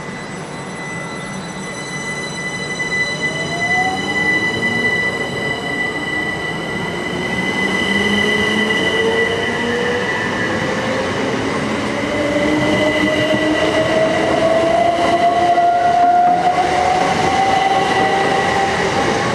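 Class 375 Electrostar electric multiple unit pulling away, its traction motor whine rising steadily in pitch and growing louder as it accelerates.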